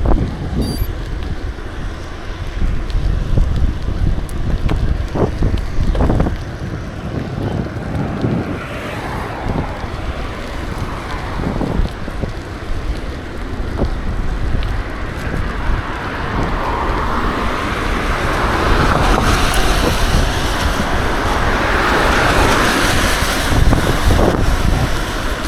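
Wind buffeting the microphone of a camera riding along on a moving bicycle, with road traffic behind it. A broader rushing noise builds over the last ten seconds or so.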